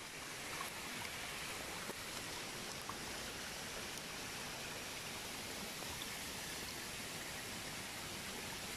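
Steady rushing water of a waterfall, an even hiss with no breaks.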